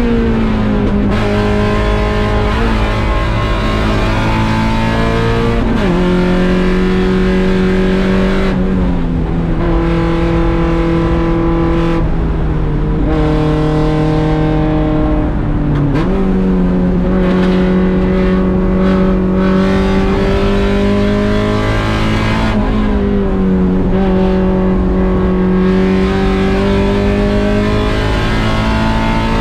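1.6-litre Mazda Miata four-cylinder race engine running hard at racing speed. Its pitch jumps or drops sharply at gear changes about five times and drifts slowly in between.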